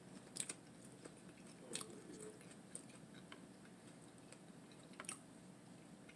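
Faint chewing and mouth sounds from eating a lettuce wrap with a hamburger patty, with a few soft, scattered clicks.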